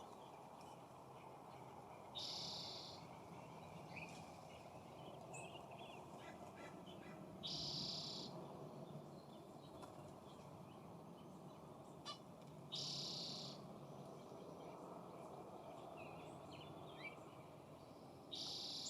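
A bird's harsh, rasping call, given four times about five seconds apart, with faint short chirps of small birds in between, over a steady low background hiss.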